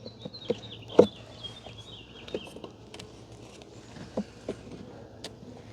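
Scattered light knocks and clicks of wooden beehive frames being handled during an inspection. A bird sings a warbling phrase over the first two and a half seconds.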